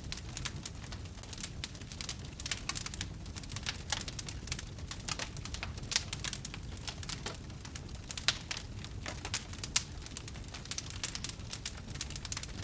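Wood campfire crackling: a dense, irregular run of sharp pops and snaps over a low steady rumble.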